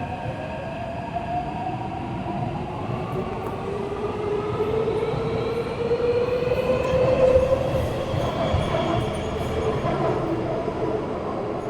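Taipei Metro C371 train pulling out of a station, its traction motors whining in several tones that rise slowly in pitch as it accelerates, over the rumble of wheels on rails. It is loudest about seven seconds in.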